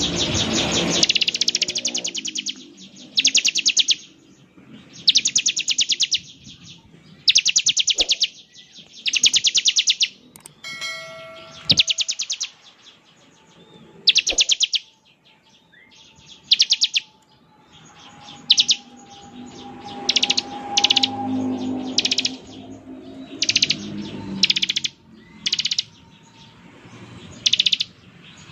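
Bar-winged prinia (ciblek) giving its 'ngebren' call: short, very fast buzzing trills, high-pitched, repeated every one to two seconds. About eleven seconds in there is a brief bell-like ring.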